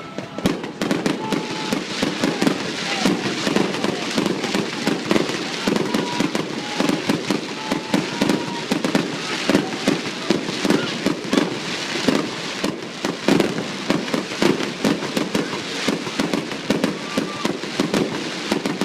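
Fireworks display going off in a dense, continuous barrage of bangs and crackles, many per second without a break.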